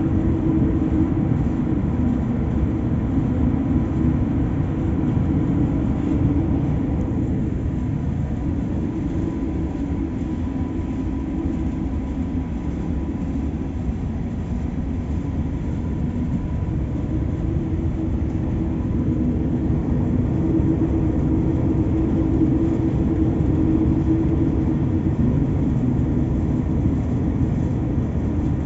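Steady low rumble of strong wind at sea, swelling and easing slowly, with a faint steady hum running through it.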